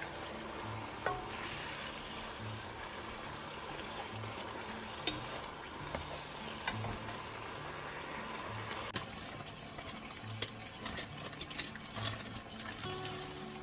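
Food frying and sizzling in a pan, with a steady hiss and a few sharp clicks and scrapes of a utensil against the pan.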